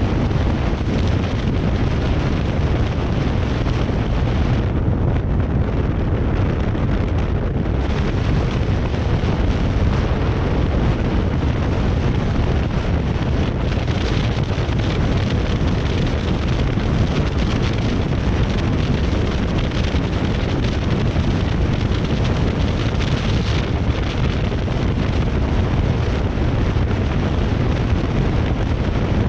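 Heavy, steady wind noise buffeting the camera's own microphone, a continuous low rumble with no pauses.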